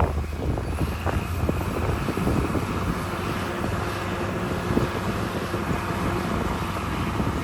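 Heavy diesel earthmoving machinery running steadily, with a few faint knocks and wind on the microphone.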